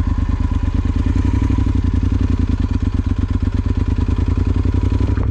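Yamaha XT1200Z Super Ténéré's parallel-twin engine idling steadily just after being started, a fast even pulsing with no revving.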